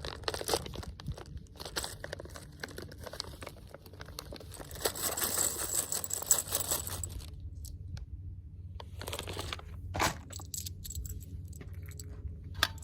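Rustling, crinkling and light clicks of ammunition being handled for loading, with a longer, denser crinkly rustle about five to seven seconds in.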